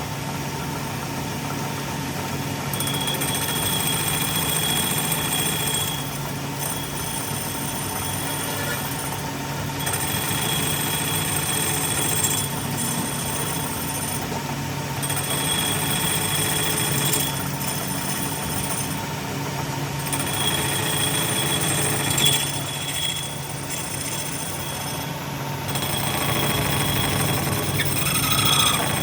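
Workshop machinery running steadily with a constant hum. A high hiss comes and goes in spells of two to three seconds.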